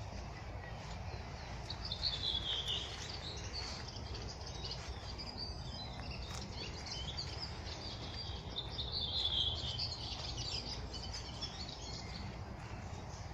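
Songbirds singing in a spring forest, with the loudest phrases of high chirping song about two seconds in and again around nine to ten seconds in, over a steady low background hum.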